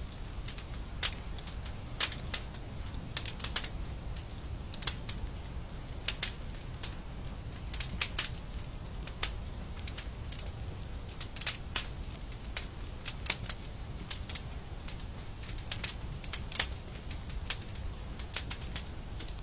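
Fire crackling in a fireplace: irregular sharp pops and snaps over a low, steady rumble.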